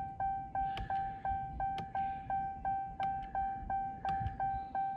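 Ram TRX cabin warning chime sounding a steady pitched tone that pulses about three times a second, with a few sharp clicks over it.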